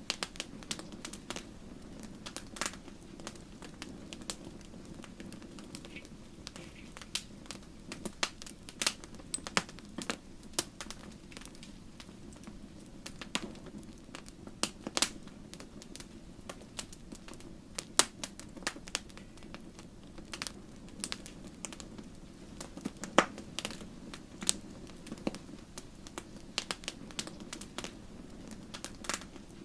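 Wood fire burning in a fireplace: logs crackling with irregular sharp pops and snaps, a few of them much louder, over a steady low rush of the flames.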